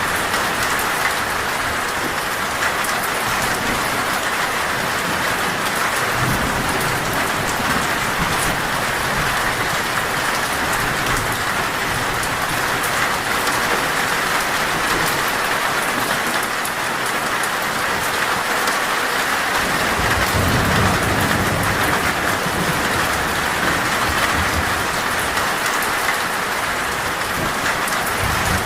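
Torrential rain falling steadily on a metal roof, with low rolls of thunder, one about six seconds in and a stronger one about twenty seconds in.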